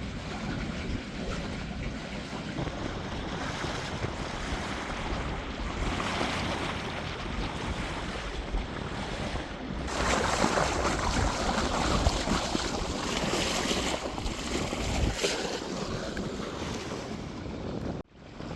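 Water rushing and splashing along the hull of a boat underway, with wind buffeting the microphone; louder from about ten seconds in.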